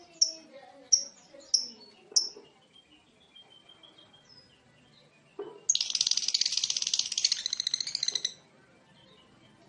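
Lovebird calling: four sharp, high chirps in quick succession, then about three seconds later a long, very fast chattering trill (the 'ngekek') lasting about two and a half seconds.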